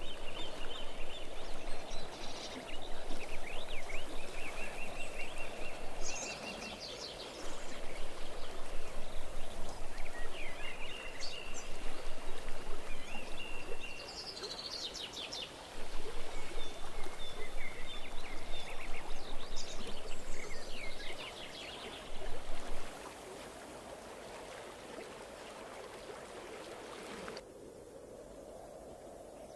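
Water of a stream running, rising and falling in louder spells, with small birds chirping and trilling over it. Near the end the sound changes abruptly to a quieter, duller hiss.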